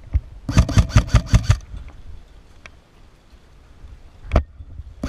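Airsoft rifle firing a rapid string of about eight shots in roughly a second, then one more single shot about four seconds in.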